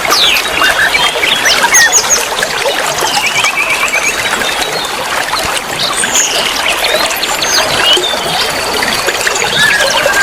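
A chorus of many songbirds chirping and whistling at once, with quick sweeping notes and a short rapid trill about three seconds in, over the steady rush of running water.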